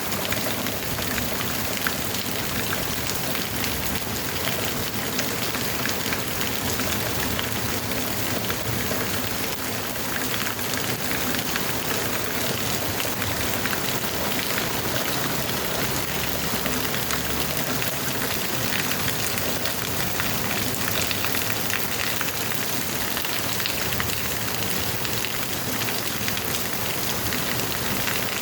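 Heavy rain falling steadily, a dense even hiss of countless drops striking surfaces.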